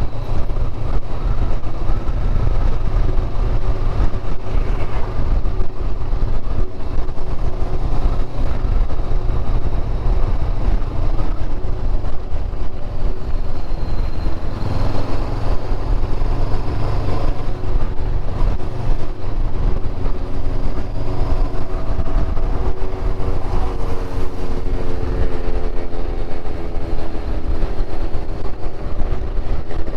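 Motorcycle riding on the road: wind buffeting the microphone over the running engine. The engine note rises in pitch over the last few seconds as the bike speeds up.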